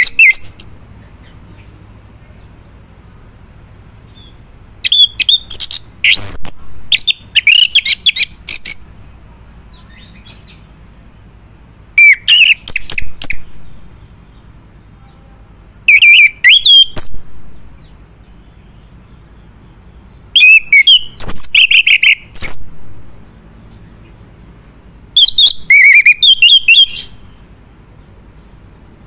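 Male chestnut-capped thrush (anis kembang) singing its full song in five loud, fast warbled phrases of a few seconds each, with pauses of a few seconds between them, and a short note right at the start.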